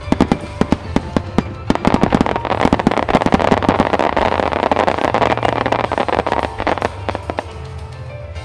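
Firework shells bursting in a rapid salvo, the bangs packing into a dense crackling barrage in the middle and thinning out near the end. A music soundtrack with a steady bass line plays underneath.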